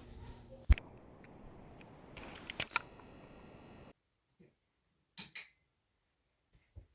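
Faint steady room noise with one sharp click about a second in and a few lighter clicks, then an abrupt drop to near silence about halfway through, broken by a few brief soft clicks.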